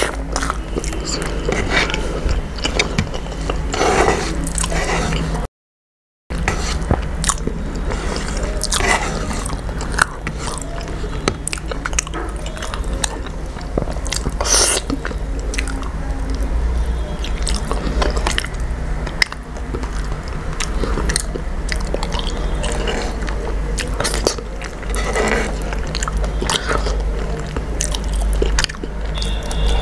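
Close-up chewing and wet mouth sounds of a person eating rice and curry by hand: smacks, clicks and squelches over a steady low hum. The sound cuts out completely for under a second about six seconds in.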